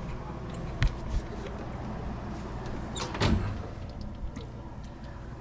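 Kitchen handling sounds over a steady low hum: two sharp knocks about a second in, then a longer creak and clunk about three seconds in, like a door being worked.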